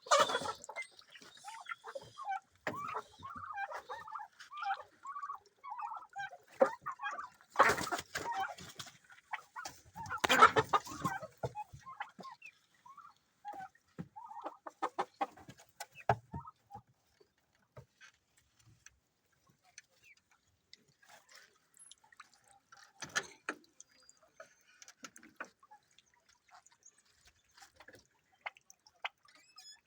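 Chickens clucking in short, bending calls, mixed with a few louder bursts of scuffling noise; the calls thin out and grow sparser in the second half.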